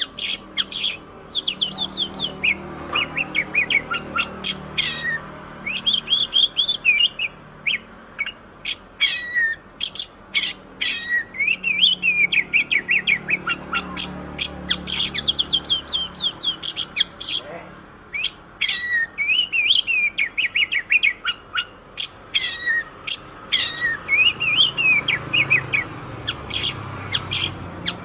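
Oriental magpie-robin (kacer) singing a long, rapid string of varied whistled phrases and chattering trills, with only short breaks.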